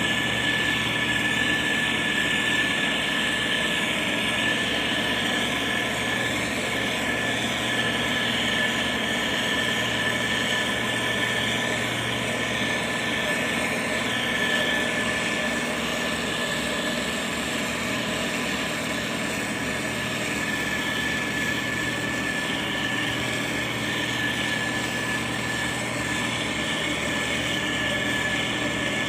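Motor grader's diesel engine running steadily under load, with a steady high whine over the engine note.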